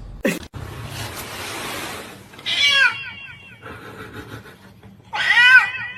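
An animal's voice: two short, high calls about two and a half seconds apart, each a quick run of rising-and-falling notes, after a stretch of hiss-like noise.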